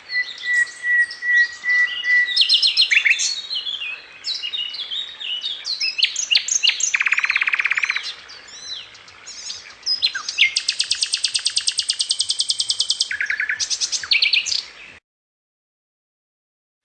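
Songbird singing a varied run of quick chirps, whistles and fast trills, including a long rapid high trill; the song cuts off suddenly near the end.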